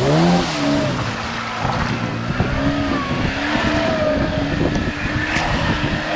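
UAZ off-road vehicle engine revving up and down, then pulling steadily under load over a constant rattle and knocking from rough ground. There is one sharp click about five seconds in.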